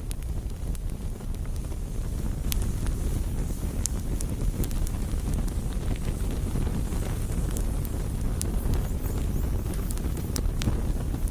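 Wood fire burning, a steady low rumble with scattered sharp crackles and pops.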